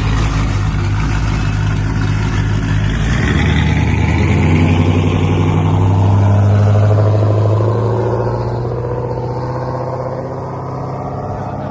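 Loud car engine running, its note shifting about three seconds in, swelling to a peak around six to seven seconds and then fading.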